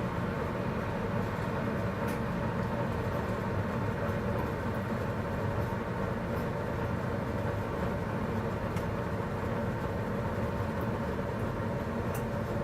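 Keurig K-2550 commercial coffee maker running steadily as it heats its water, an even rumbling hum with a hiss.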